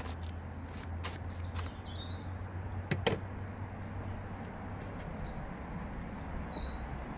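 Wooden beehive parts being handled: rustling and clicking, with one sharp knock about three seconds in. Small birds chirp in the background, over a low rumble of wind on the microphone.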